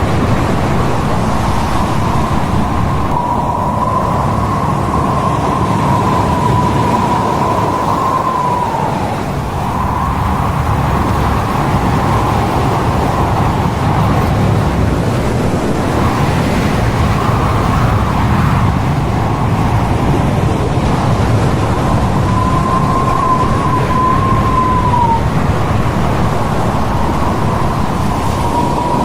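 Loud, steady rush of storm wind and heavy sea on a ship, with a high wavering whistle that comes and goes, sliding down in pitch as it fades.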